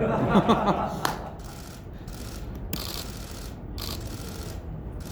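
Voices briefly at the start, then several short rustling, scraping bursts.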